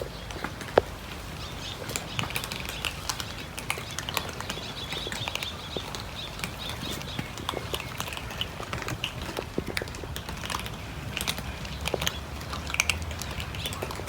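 A group of cats eating, their chewing heard as many small scattered clicks and crunches, with one sharper click just under a second in.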